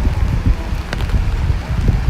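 Strong typhoon wind buffeting the microphone, a gusting low rumble, with a sharp click about a second in.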